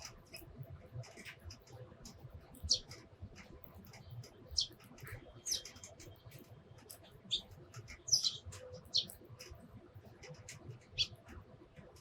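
Tree sparrows chirping: short, high, irregular chirps, with a quick cluster of louder ones about two-thirds of the way through.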